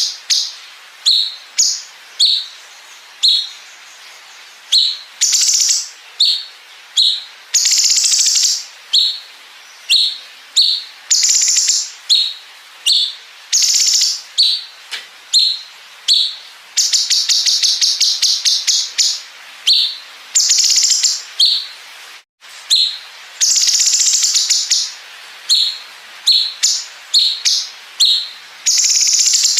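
Cucak cungkok singing: short sharp chirps repeated about once a second, alternating with long, very fast rattling trills (the 'bren' fill).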